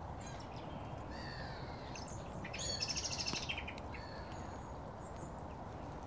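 Small birds calling: a few thin chirps, then a quick rattling run of rapidly repeated notes near the middle, over a steady low rush of background noise.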